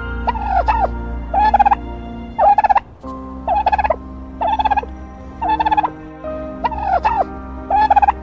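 A large fowl calling over and over in short, rapidly pulsing bursts, about one a second, over soft background music.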